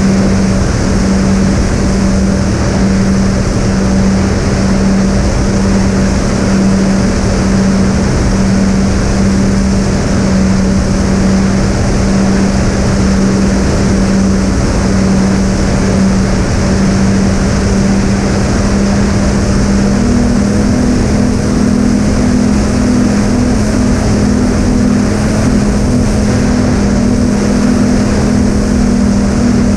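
Twin brushless electric motors of a fixed-wing RC plane (Sunnysky 2212 980 kV, three-blade 7x4 props) droning steadily in flight over a heavy rush of air noise. About two-thirds of the way through, a second, slightly higher tone joins the first.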